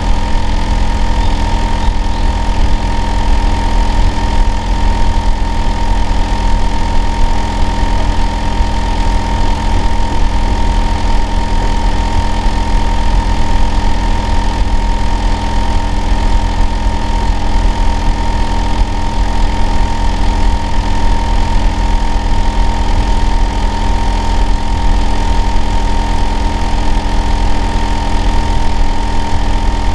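Hitachi air-conditioner outdoor unit running: a loud, steady low hum with a steady high-pitched whine on top, the compressor and fan noise that the uploader tags as abnormal noise.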